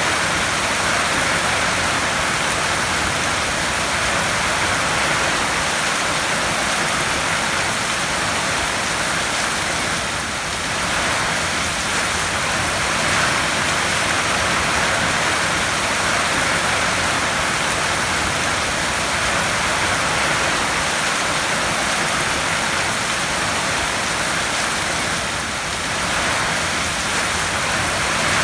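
Heavy rain drumming steadily on a metal roof, a dense even hiss of drops with slight swells and lulls.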